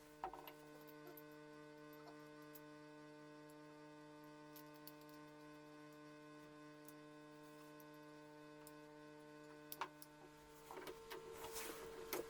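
Faint, steady electrical hum with a few light clicks, and some clatter near the end.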